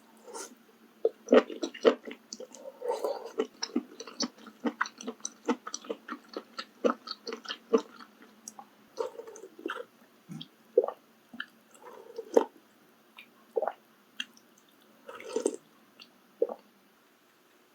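Close-miked chewing of maratang, with many quick mouth clicks in the first half, then sparser, louder bites that stop shortly before the end.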